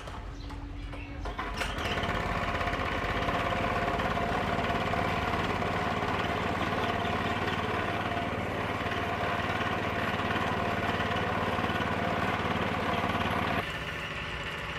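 An engine-driven machine starts about two seconds in and runs steadily. About a second before the end it drops to a quieter level.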